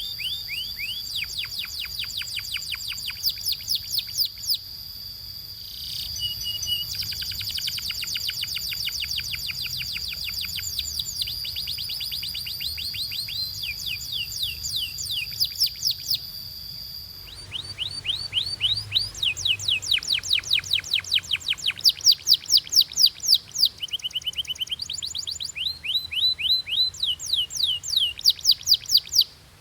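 Domestic canary singing in fast trills: runs of rapid down-slurred high notes repeated one after another. A steady high tone runs beneath the song for the first half. A little past halfway it stops, and the song goes on in louder trills.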